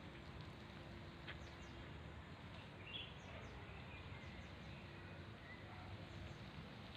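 Faint small songbirds chirping over a steady outdoor background noise, with a short cluster of chirps about three seconds in.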